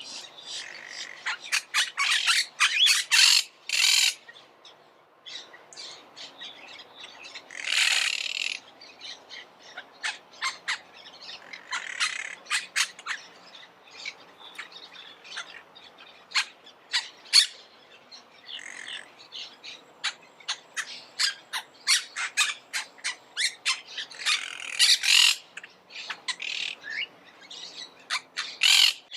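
Monk parakeets calling: rapid runs of short, sharp squawks and chirps, with louder bunched bursts of calls every few seconds.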